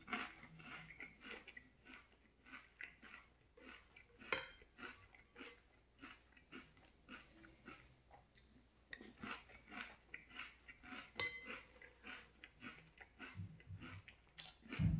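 Close-up crunching and chewing of frosted corn flakes in milk, with a metal spoon clinking sharply against a ceramic bowl a couple of times. There is a dull thump near the end.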